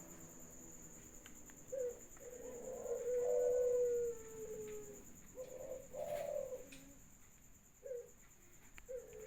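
Dove cooing: a short coo, then a long drawn-out coo held for about two seconds that sags slightly at its end, followed by a few shorter coos, over a faint steady high whine.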